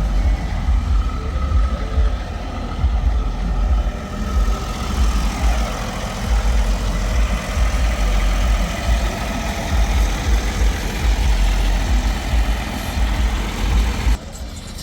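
Diesel engine of a custom cattle-hauler semi truck idling with a deep, uneven rumble.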